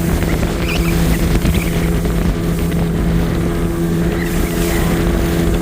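Motorboat engine running at a steady pitch, an even drone that does not change.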